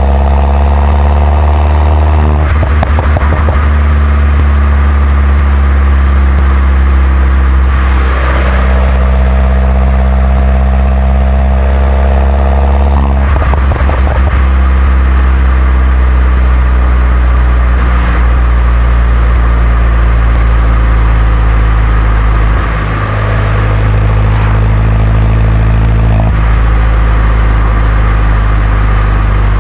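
Mini John Cooper Works R57's 1.6-litre turbocharged four-cylinder engine and stock exhaust under acceleration, the engine note rising in pitch and breaking at a gear change about two and a half seconds in. It climbs again to a second gear change around thirteen seconds, then runs more steadily.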